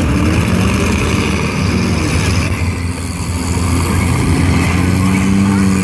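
Demolition derby car engines running loudly, one engine's pitch rising a little about four seconds in as it revs.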